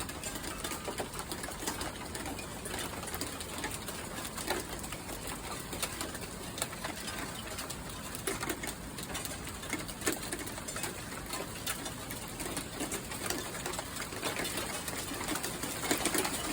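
Rain beginning to fall, with many small drops ticking on metal surfaces over a steady hiss. It grows a little louder near the end.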